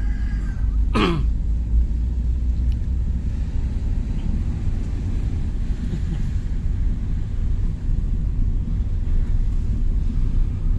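Steady low rumble of a moving vehicle on the road, with a quick falling whoosh about a second in.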